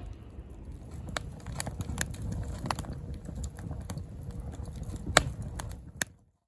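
Wood fire burning in a fire pit, with irregular crackles and pops over a low steady rumble of flame; the loudest pop comes about five seconds in, and the sound cuts off suddenly about six seconds in.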